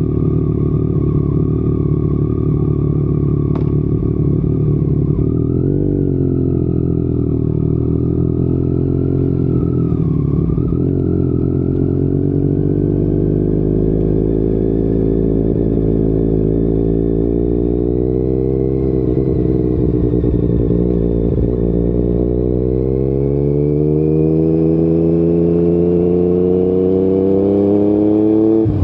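Yamaha MT-09 three-cylinder engine running through an Akrapovic exhaust while riding, its pitch wandering gently, then rising steadily over the last several seconds as it accelerates.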